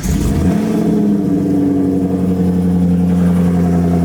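Chevrolet Camaro engine catching on a cold start and settling into a loud, steady fast idle, its pitch easing down slightly about a second in.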